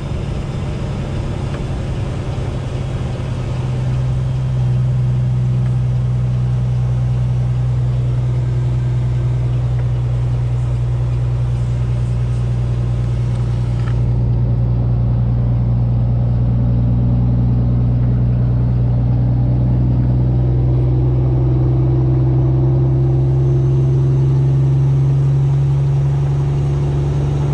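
Vehicle engine and road noise while driving, a steady low drone that gets a little louder about four seconds in.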